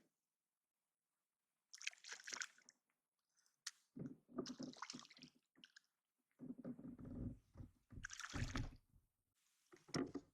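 Kayak paddle blades dipping and pulling through the water, a string of separate watery strokes every second or two.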